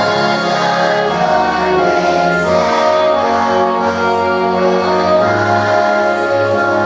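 A children's choir of third graders singing a song together over instrumental accompaniment.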